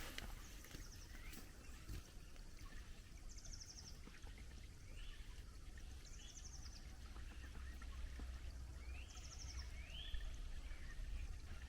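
Small songbirds calling in the forest: several short, high trilled notes and rising, arched whistles, repeated on and off, faint over a steady low rumble.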